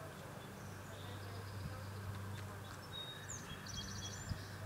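Faint high chirps and a short fast trill from small birds, over a steady low hum.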